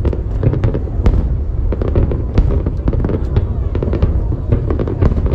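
Fireworks display: aerial shells bursting and crackling in a dense, continuous barrage. Many sharp cracks follow each other in quick succession over a constant low booming din.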